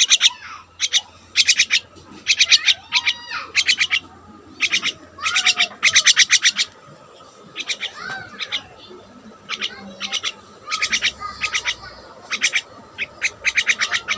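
Pet birds giving repeated bursts of rapid, harsh chattering calls, each burst lasting under a second, with a few short rising whistles in between.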